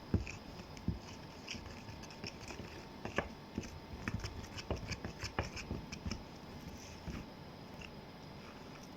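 Glue being stirred in a bowl: irregular light clicks and scrapes of the stirrer against the bowl, thinning out about seven seconds in.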